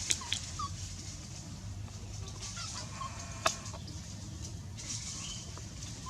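Short, faint, high chirping calls from an animal, scattered over a steady low hum and hiss, with a few sharp clicks and one louder click about halfway through.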